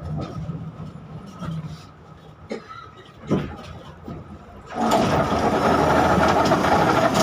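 Inside a KTM-5M3 (71-605) tram under way: the steady low hum of the running tram fades out over the first couple of seconds. Two short knocks follow, then a loud, even rushing noise sets in about five seconds in.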